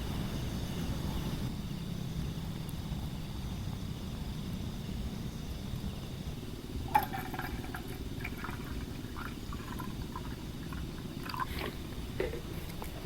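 Steady low rumble with a sharp click about seven seconds in, followed by scattered small clicks and knocks.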